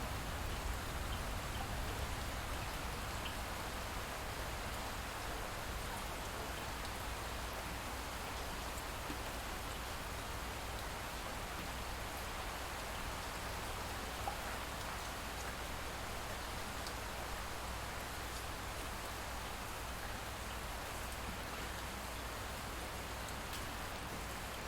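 Light rain falling steadily, with a soft patter of drops and a low, even rumble underneath.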